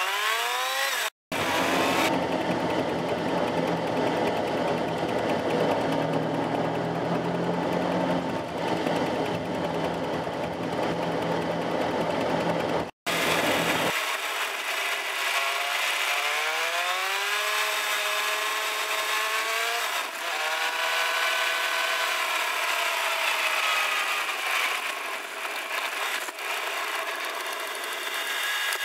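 Fiat 500's air-cooled two-cylinder engine heard from inside the small cabin while driving, its buzzy note rising and falling with the revs. The sound cuts off abruptly twice, about a second in and near the middle.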